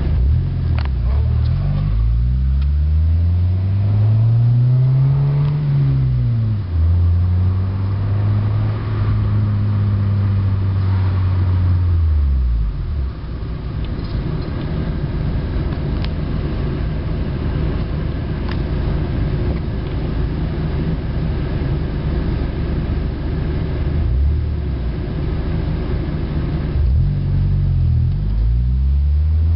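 Stock 1991 Honda Accord F22A1 2.2-litre four-cylinder engine and exhaust under way, with a deep tone. The pitch climbs for the first few seconds and drops at a gear change about six seconds in. It holds steady, falls back to a low steady drone, then climbs and drops again with gear changes near the end.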